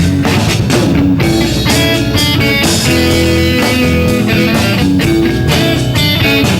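Live rock band playing a song: electric guitar over bass and drums, at a steady loud level.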